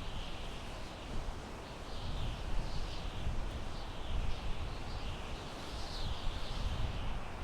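Wind blowing through pine trees, a steady rushing hiss with a low rumble that swells and eases in gusts. A bird calls over it in short repeated chirps, about two a second.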